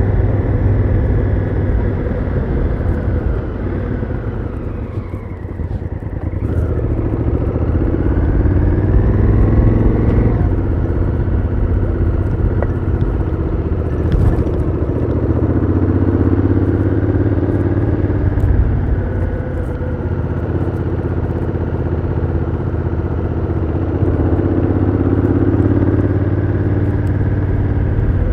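Honda Africa Twin CRF1000L's parallel-twin engine through the stock exhaust, heard onboard while riding. The revs ease off about five seconds in, climb steadily, drop sharply as the gearbox shifts up about ten seconds in, then climb again twice more.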